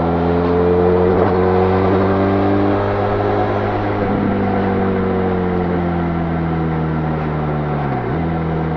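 Benelli Leoncino 500's parallel-twin engine on its stock exhaust, riding under way. The engine note holds steady, then falls slowly, and drops sharply near the end.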